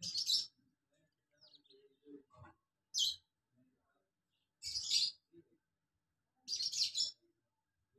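Birds chirping in short high-pitched bursts, four times, each under a second and about one and a half to two seconds apart.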